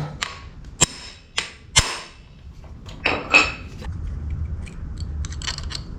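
Sharp metallic knocks and clicks of hand tools striking and working metal parts: several single strikes in the first two seconds, a louder cluster about three seconds in, and a few quicker clicks near the end.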